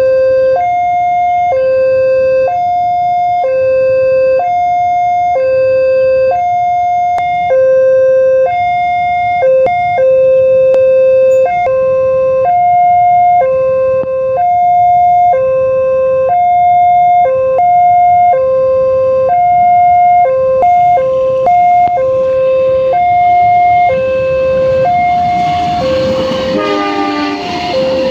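Railway level-crossing warning alarm sounding a two-tone ding-dong, alternating between two pitches about once a second. Near the end the rumble of an approaching train builds up under it.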